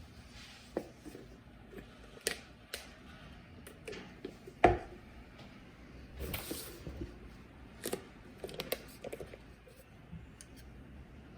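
Scattered light clicks and knocks, about a dozen spread irregularly, the loudest a sharp knock about halfway through, followed by a short rustling hiss.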